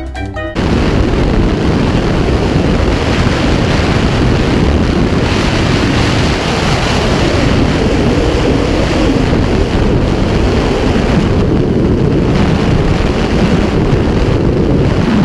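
Loud, steady wind rush buffeting the camera microphone, as in skydiving freefall, starting abruptly about half a second in as music cuts out.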